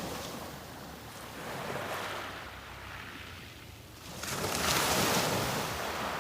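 Sea waves breaking and washing up the beach. A smaller wave comes in about two seconds in, and a bigger, louder one rushes in a little after four seconds and then draws back.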